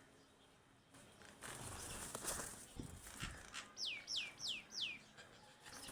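Small bird calling: a run of four clear whistled notes, each sliding down in pitch, in quick succession in the second half. Before them come scratchy rustling and a few sharp clicks.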